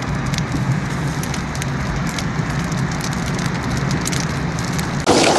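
Heavy rain pouring onto a hard surface: a steady hiss with scattered sharp drop impacts. About five seconds in it cuts abruptly to a louder rush of rain.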